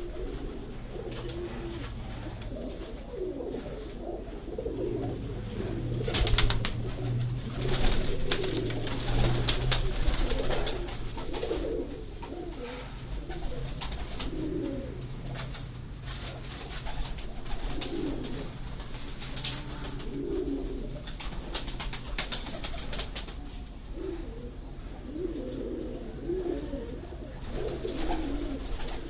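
Domestic pigeons cooing over and over in low, warbling calls. Between about six and twelve seconds in, a run of sharp clicks and rustles sounds over the cooing.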